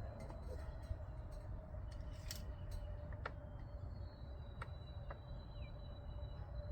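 Faint, scattered sharp clicks, about five of them, over a steady low rumble and a faint continuous hum.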